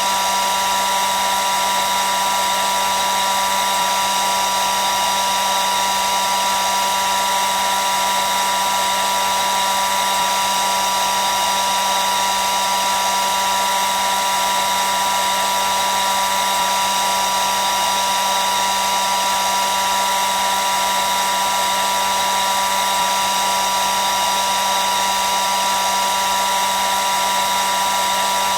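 Electric hair dryer running continuously: a steady rush of blown air with a steady high whine from the motor and a lower hum, unchanging throughout.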